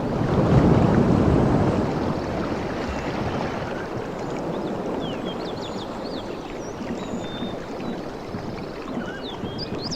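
Surf on a beach: a wave breaks and washes in, loudest about a second in, then slowly eases into a steady wash. Short high chirps come in over the second half.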